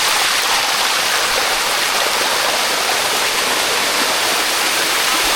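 Shallow waterfall running over limestone, a steady loud rush of falling and splashing water.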